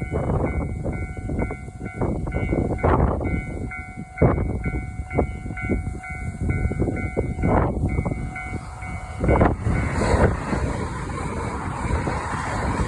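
A level-crossing warning bell rings its pulsing "kan-kan" while a JR Hokkaido 789 series electric limited express rushes through the crossing at high speed, its wheels knocking repeatedly over the rails. The bell stops about nine and a half seconds in, leaving the loud rushing noise of the passing train.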